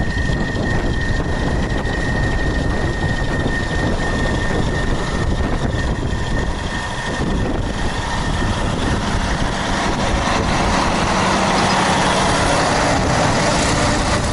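Heavy wheeled tractor's diesel engine running steadily while clearing snow, growing louder near the end.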